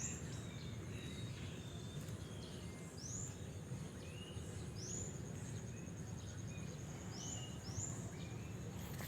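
Small bird giving short, high, upward-sweeping chirps, about seven in all at irregular gaps, over a faint steady high insect trill and low outdoor background noise.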